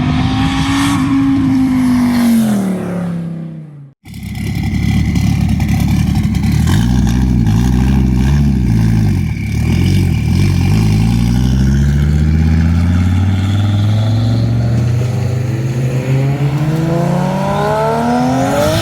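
Twin-turbo Dodge Viper V10 revving on a chassis dyno, in two cut-together takes. In the first, the revs fall away as the throttle closes. After a sudden cut about four seconds in, the engine runs, wavers and then climbs steadily in a long pull toward the end.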